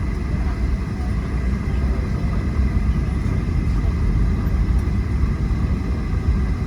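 Steady low rumble of cabin noise inside an airliner as it taxis slowly to the gate after landing, with a faint steady whine above it.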